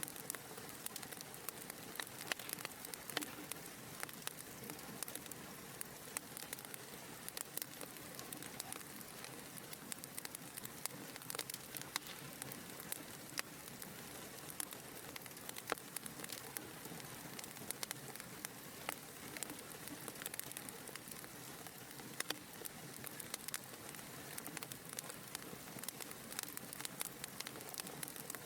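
Wood fire burning in a fireplace: a steady soft hiss with many small, irregular crackles and pops.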